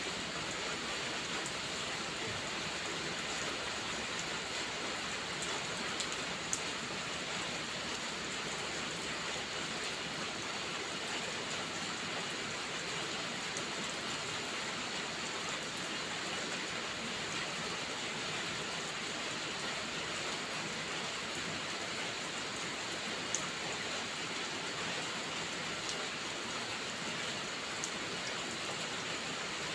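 Steady heavy rain, with a few sharp pops of fireplace crackle standing out about a quarter of the way in and twice near the end.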